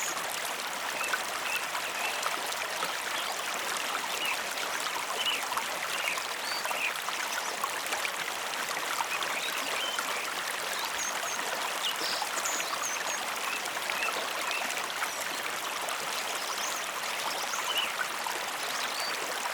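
Mountain river flowing: a steady, even rush of water with short higher-pitched sounds scattered through it.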